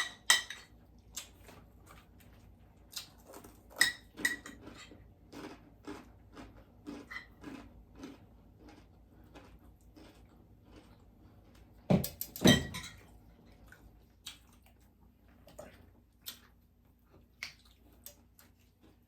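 Close-miked eating sounds: scattered sharp crunches of bites into crispy chicken and bacon lettuce wraps, with a few ringing clinks of dishes and utensils. The loudest pair of crunches comes about twelve seconds in.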